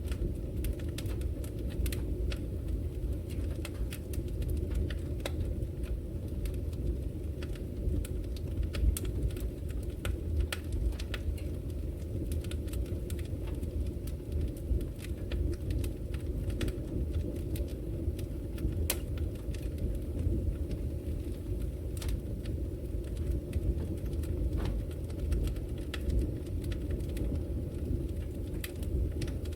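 Wood fire burning in a fireplace: a steady low roar of the flames with frequent sharp, irregular crackles and pops from the logs.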